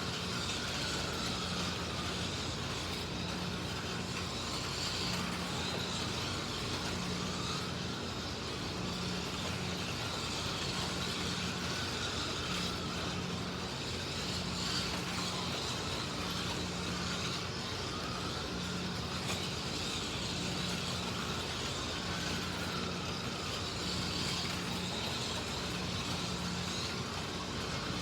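Slot cars lapping a track: small electric motors whining and rising and falling in pitch as the cars speed up and brake around the circuit, with gear and pickup noise. A hum comes and goes every second or two underneath.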